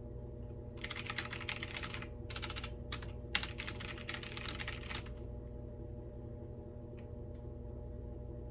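Computer keyboard typing: quick strings of keystrokes with brief pauses between them, stopping about five seconds in, then two faint single clicks. A steady low hum continues underneath.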